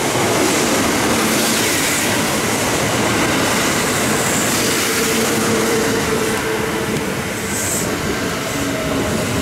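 Kintetsu limited express train running along the platform at close range: a steady, loud rumble of wheels on rail, with a faint wheel-squeal tone in the middle.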